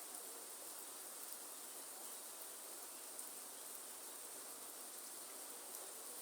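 Steady rain falling in a rainforest, with a continuous high insect drone over the even hiss of the rain and a few small drip ticks.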